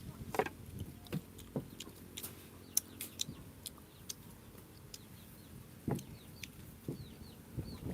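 Chicks peeping faintly in short chirps that fall in pitch, over scattered clicks and crackles from rambutan being peeled and eaten.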